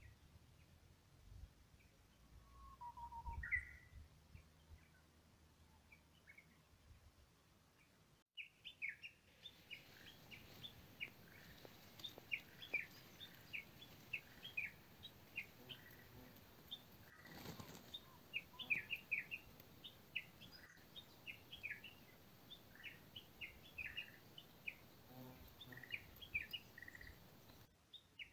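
Small birds chirping: a couple of short calls in the first few seconds, then from about eight seconds in a busy run of many quick, high chirps that lasts until near the end.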